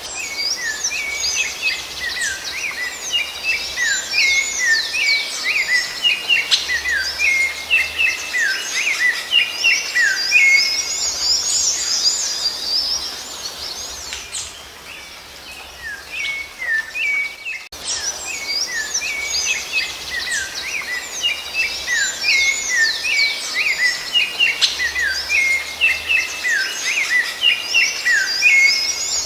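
Rufous-bellied thrush (sabiá-laranjeira) singing in quick, high, chirping phrases. The song drops away for a few seconds around the middle, then the same passage starts over after an abrupt cut, as in a looped recording.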